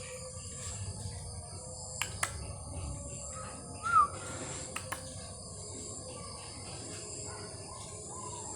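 Zebra dove (perkutut) calling: a few short notes that rise and fall, the loudest about four seconds in. A few sharp clicks are heard among them.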